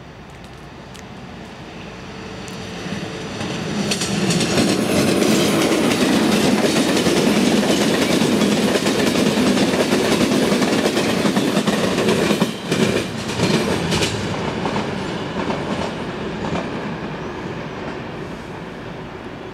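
Passenger train hauled by a MÁV class V43 (431) electric locomotive passing close by: the rumble and rattle of wheels on rail build up over the first few seconds, stay loud through the middle with a couple of sharp knocks, then fade as the train draws away.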